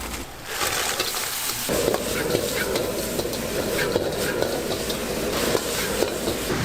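Food sizzling in hot oil as it is cooked and stirred, with small clicks and clinks through it. The sizzle is thinner for about the first second and a half, then abruptly fuller.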